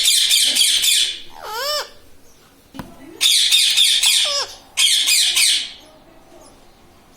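Pet Indian ringneck parrot screeching: three loud, harsh screeches, with a short warbling, up-and-down call after the first.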